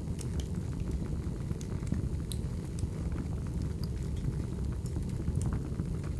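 A wood fire burning: a steady low rumble with scattered sharp crackles and pops from the burning logs.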